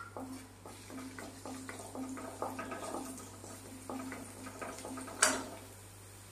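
Chopped ginger and garlic frying in hot coconut oil in a kadai: faint crackling with scattered small pops. A sharp knock about five seconds in as a wooden spatula strikes the pan.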